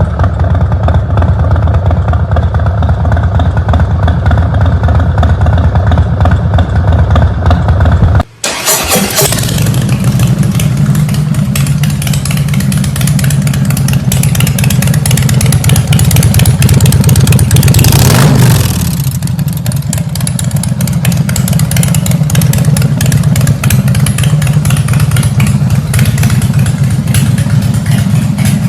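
Harley-Davidson V-twin motorcycle engine running through its exhaust. About eight seconds in the sound cuts off abruptly for a split second and resumes with a different pitch, then it revs up briefly about two-thirds of the way through before settling back to idle.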